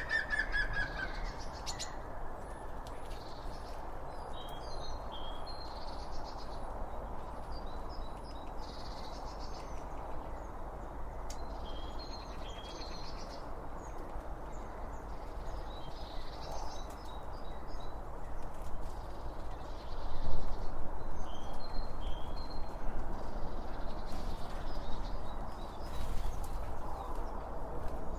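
Small songbirds chirping and twittering in short, repeated high calls over a steady rushing background.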